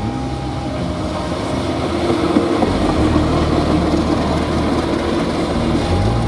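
A diesel train passing close by, a loud continuous rush of engine and wheel noise. Background music is faintly heard at the start and comes back near the end.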